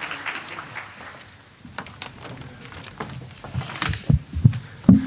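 Audience applause dying away over the first second, followed by a quieter stretch of scattered clicks and a few low thumps.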